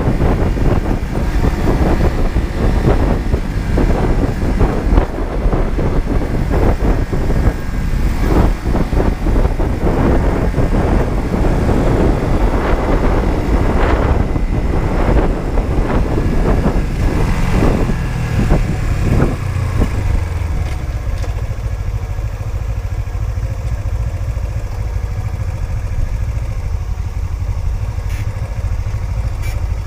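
Honda CB125T's 124 cc air-cooled parallel twin running on the move, with wind rushing over the microphone. About twenty seconds in the wind noise drops away and the engine settles to a steady, even idle.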